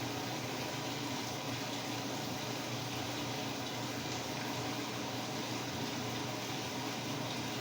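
Samsung WA45T3200AW top-load washer with an impeller running mid-cycle: a steady rush of water over a low, even hum.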